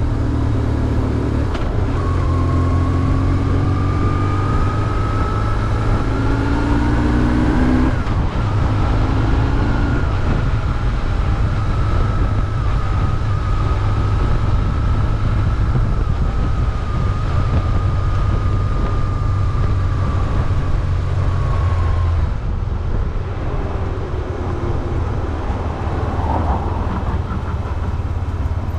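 BMW R1150GS boxer twin engine running under way. Its pitch climbs for the first several seconds, breaks off about eight seconds in, holds steady, then drops away as the revs fall about three-quarters of the way through.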